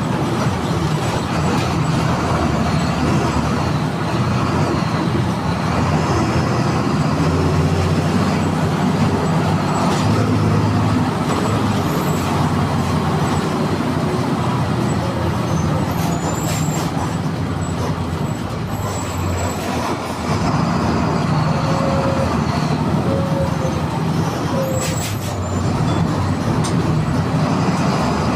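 MWM 6.12 TCE 7.2-litre turbocharged six-cylinder diesel of a VW 17-230 EOD bus running under way, its note rising and falling as it pulls. The sound dips briefly twice in the latter part.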